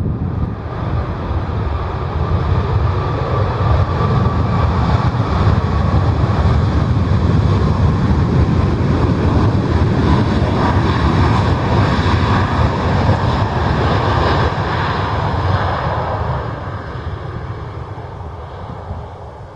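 Airliner's engines passing close by: a loud rush that builds over the first few seconds, holds for about ten seconds, then fades away.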